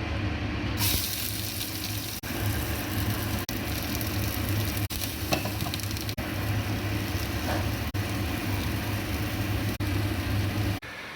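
Food frying in hot oil in a pan, a steady sizzle that starts about a second in, over a constant low hum.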